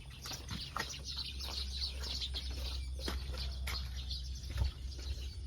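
Small birds chirping, many short high calls over a steady low rumble.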